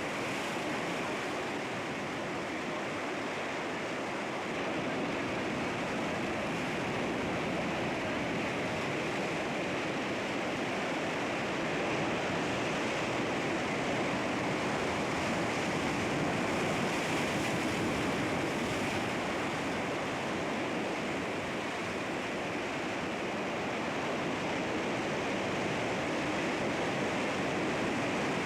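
Sea waves breaking and washing against rocks: a continuous surf rush that swells gently and eases.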